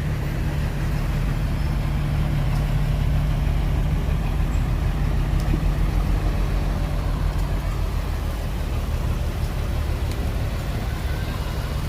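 Heavy earthmoving machine's diesel engine running at a steady speed: a low, even engine hum with no change in revs.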